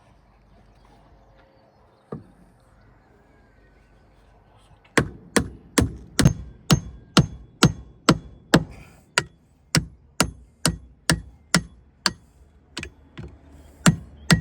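Hammer blows on wood, a steady run of about two sharp strikes a second starting about five seconds in, after a single knock near two seconds.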